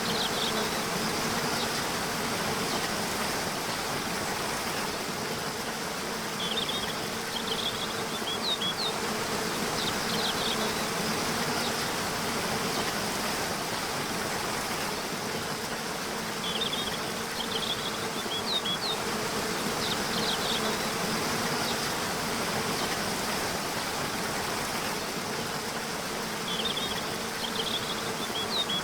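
Waterfall rushing steadily, with a steady low buzzing hum under it. Short clusters of high bird chirps come about every ten seconds: roughly a quarter of the way in, past halfway, and near the end.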